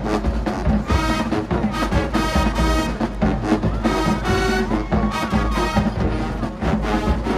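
Marching band playing, with brass sections carrying the melody over percussion hits.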